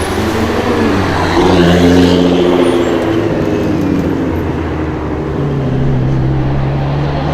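Supercar engine running at changing revs, its pitch stepping between steady levels and settling lower near the end.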